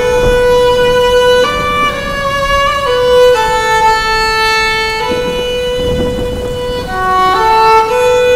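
Background music: a slow violin melody of long held notes, each lasting about a second or two, with a faint low rumble of noise underneath.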